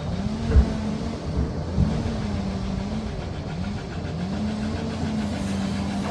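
Liebherr PR 746 crawler dozer working, its engine note rising, holding and falling about three times over a steady low rumble. Two heavy thumps sound in the first two seconds.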